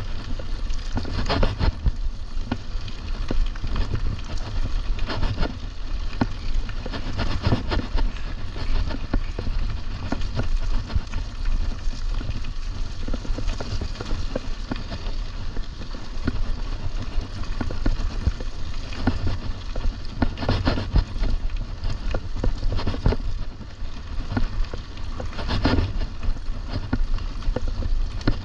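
Riding noise from a mountain bike on a trail: wind rumbling on the microphone, with tyres crunching and the bike rattling over bumps in irregular bursts every few seconds.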